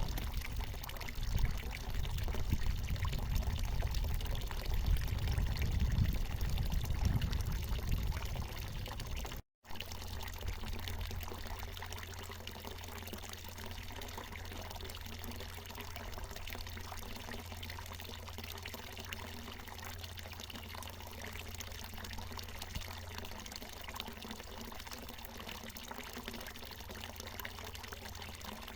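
Water pouring steadily from a natural mountain spring in a continuous trickling splash. The sound cuts out for a moment about a third of the way in, and the deep rumble under it is gone after the break.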